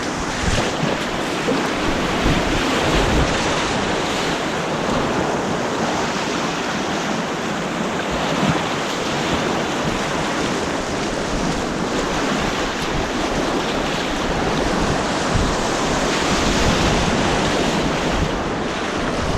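White-water rapids of an artificial slalom course rushing steadily, heard close up, with some wind on the microphone.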